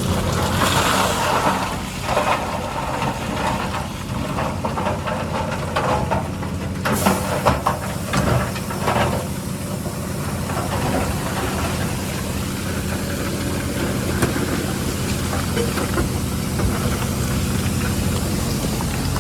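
Heavy diesel earthmoving machinery running steadily at a low, even engine note, with a few sharp knocks about seven to nine seconds in.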